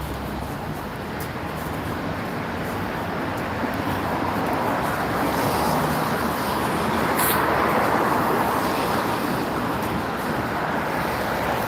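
Steady rushing noise that swells a little past the middle and eases off again.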